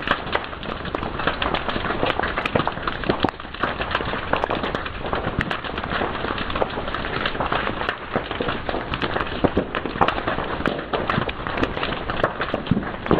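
Fire crackling steadily, with dense, rapid pops and snaps over a constant hiss.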